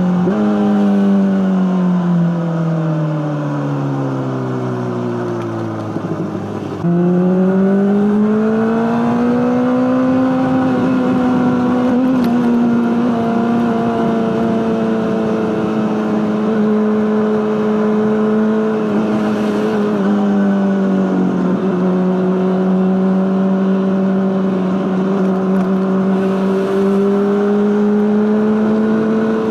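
Honda CBR600RR inline-four engine through an Akrapovic exhaust, running at steady high revs. Its note falls away smoothly for several seconds, jumps back up sharply about seven seconds in, climbs, then holds nearly level with a slight dip past the middle.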